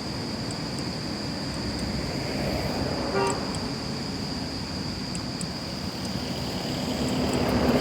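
Road traffic noise with a short vehicle horn toot about three seconds in, and a vehicle coming louder near the end.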